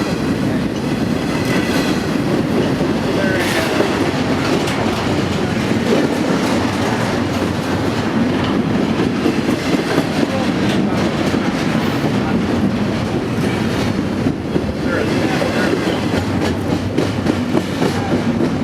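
A train's cars rolling steadily past at close range, the wheels running over the rails without a break.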